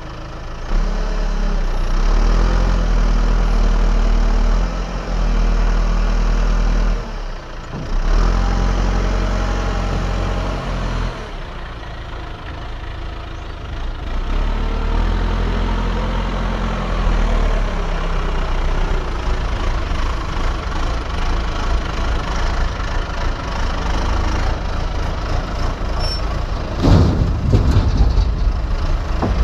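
Mini excavator's diesel engine working under varying hydraulic load, rising and easing as the machine digs. Near the end there is a burst of knocks and cracks.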